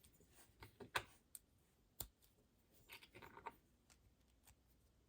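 Small plastic shaver parts being handled: a few light clicks and taps, with a brief clatter about three seconds in.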